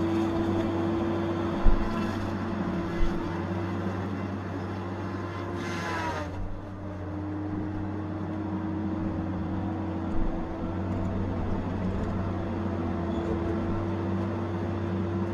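Tigercat 870C feller buncher's diesel engine running steadily, with its pitch dipping briefly about six seconds in before picking back up. A few short knocks sound over it.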